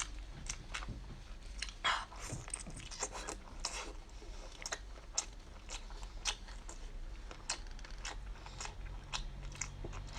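Close-miked biting and chewing of a whole cooked cuttlefish: irregular crisp crunches and wet clicks, several a second.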